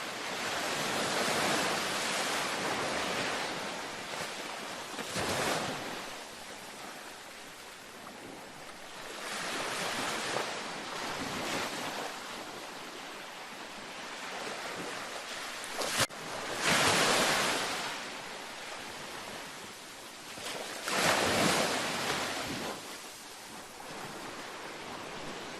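Ocean waves breaking and washing up a beach, swelling and fading in about five surges a few seconds apart. A single sharp click sounds about sixteen seconds in.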